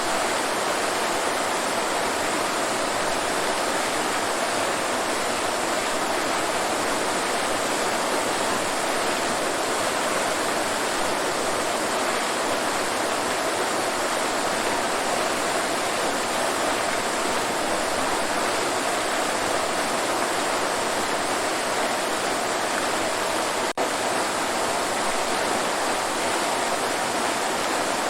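Waterfall: a steady, even rush of falling water with no change in level, broken only by a split-second dropout about three-quarters of the way through.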